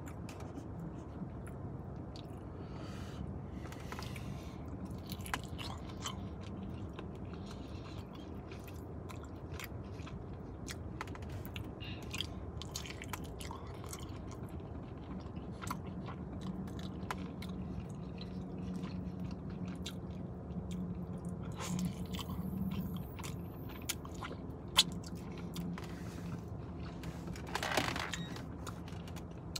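Close-up chewing and biting of saucy, crispy chicken wings: wet mouth sounds with many small crunches and clicks, over a steady low hum.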